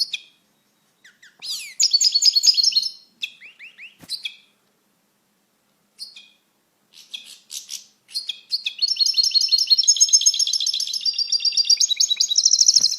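European goldfinch singing: a short twittering phrase about two seconds in, a few scattered notes, then a long, fast, high twittering song over the last four seconds.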